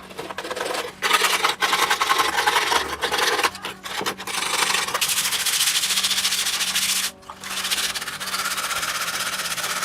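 Abrasive sanding of a motorcycle part: a continuous rubbing sound with a few brief breaks.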